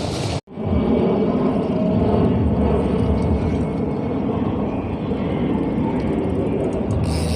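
Steady rumble of outdoor road noise heard while cycling. It starts after a brief cut to silence about half a second in.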